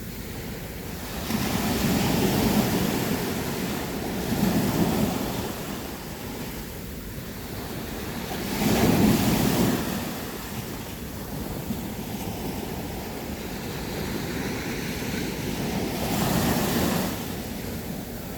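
Sea waves breaking on a beach, a steady wash of surf that swells up with each breaker: about two seconds in, around five seconds, about nine seconds, and again near the end.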